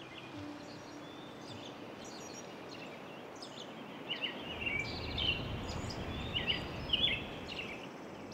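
Small birds chirping and calling repeatedly over a steady outdoor background hiss; the calls come thicker and louder in the second half.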